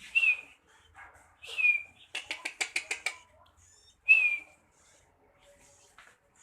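Pet bird calling: short sharp calls, each dropping a little in pitch, three times, with a quick rattling run of about nine notes in the middle.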